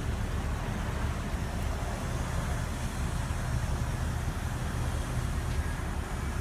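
Steady low rumble of background vehicle noise.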